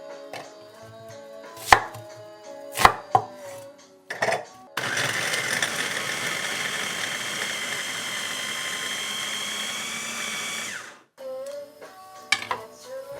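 A knife striking a cutting board a few times, then about six seconds of loud, steady rushing noise that cuts off suddenly. Soft background music runs underneath.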